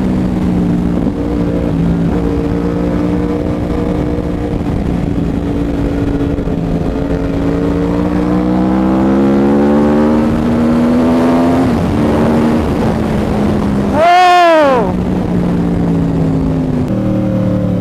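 2011 Yamaha R1's crossplane inline-four running loud through a Toce full exhaust system under way. The note holds, climbs slowly for several seconds and drops back, and about fourteen seconds in there is a sharp, loud rev that rises and falls quickly, with another beginning near the end.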